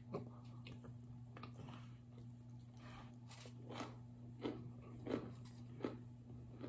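Chewing on chunks of cornstarch brick: a series of sharp, irregular crunches, louder in the second half, over a low steady hum.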